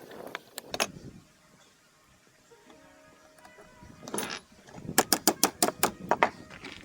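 Hand tools working on the metal parts of an antique engine's governor and push rod assembly. A few sharp clicks, a scrape, then a quick run of about eight sharp metallic taps, around six a second.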